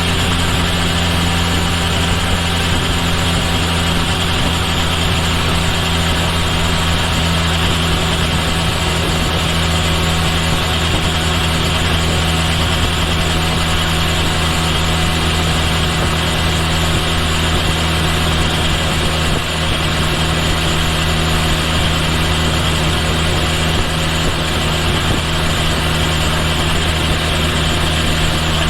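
Kawasaki Ninja H2 SX's supercharged inline-four engine running at a steady, unchanging engine speed, picked up close to the bike's rear end.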